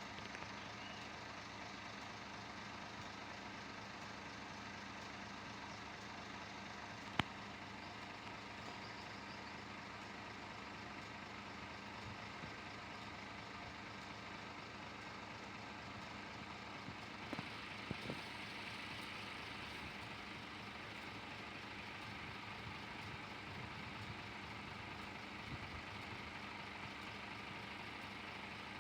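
Scania Irizar bus's diesel engine running steadily, with a sharp click about seven seconds in and a few knocks and more hiss from about seventeen seconds on.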